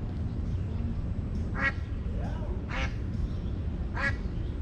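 Mallard duck quacking three times, about a second apart, over a steady low rumble.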